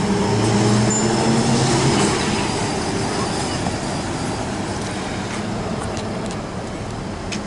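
Melbourne City Circle tram running along the street. Its low motor hum and rolling noise are loudest in the first two seconds, then fade steadily as it moves away, with a few sharp clicks near the end.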